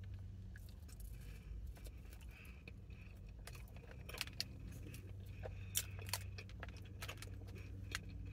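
Quiet chewing of a bagel with scattered small sharp clicks from the mouth, over a steady low hum inside the car.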